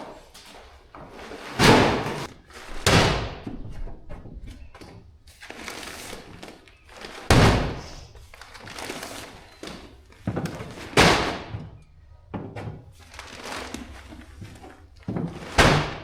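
Heavy sacks of goat feed thudding down as they are unloaded from a truck and stacked, with the rustle of the bags between drops. About five loud thumps come a few seconds apart.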